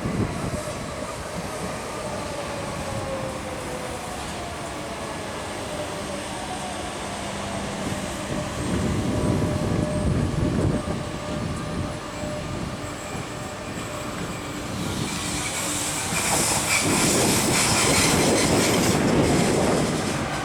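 Train running on rails, with a whine that falls in pitch over the first few seconds. It grows louder about nine seconds in and again in the last five seconds, when it is loudest and carries a strong high-pitched hiss.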